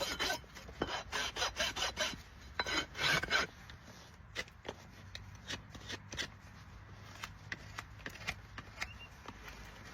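Farrier's rasp filing a Shire horse's hoof in quick back-and-forth strokes for about the first three and a half seconds, then lighter scattered scrapes and clicks.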